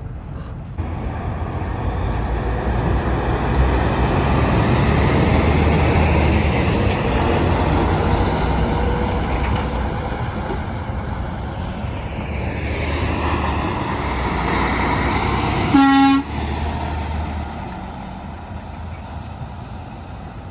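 A heavy truck passes: engine and tyre noise swell up about a second in and then fade away. About 16 seconds in comes one short, loud blast of the truck's horn.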